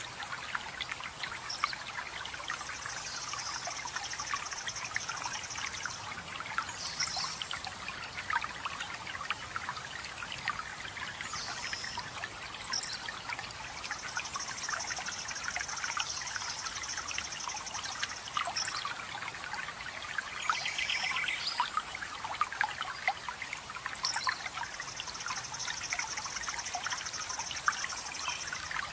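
Running water trickling and splashing steadily. Over it, a songbird gives a high rapid trill lasting a few seconds, three times, with short high chirps in between.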